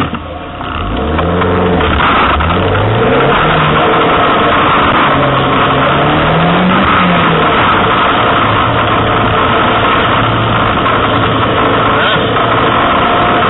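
Pontiac Solstice GXP's turbocharged four-cylinder engine under hard acceleration during an autocross run, its pitch rising and falling several times in the first half, then holding steady, with constant road and spray noise underneath.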